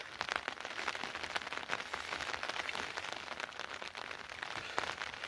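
Steady rain falling, heard as a dense run of small, irregular drop ticks.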